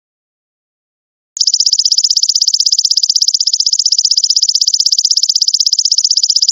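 Belalang emas ('golden locust') insect song: a loud, high buzz made of rapid, even pulses, starting about a second and a half in after silence.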